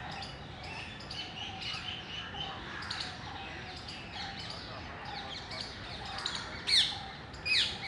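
Busy chatter of many birds chirping, with parrots at the feeding spot giving two loud, harsh squawks that sweep downward in pitch near the end.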